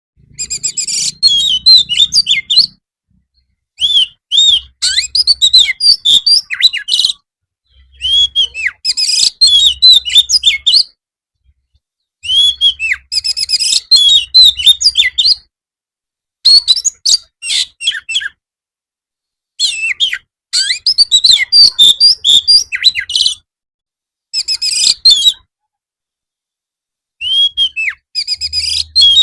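Oriental magpie-robin (kacer) singing in its chatty, continuous 'gacor' style: loud bursts of quick, varied whistles and chattering phrases a few seconds long, each cut off abruptly and followed by about a second of silence.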